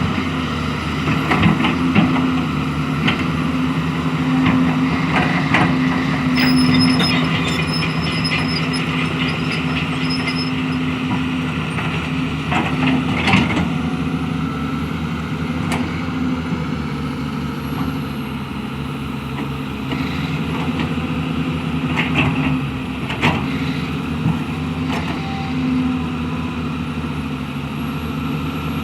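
Hydraulic excavator's diesel engine running steadily while working, with scattered sharp knocks and clanks over it.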